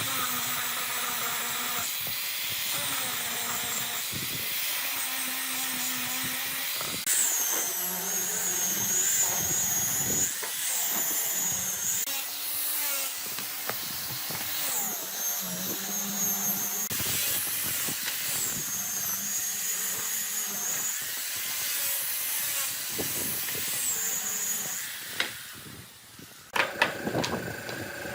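A handheld power tool running with a steady hiss, plus a high wavering whine that comes and goes in stretches of a few seconds; it drops away shortly before the end.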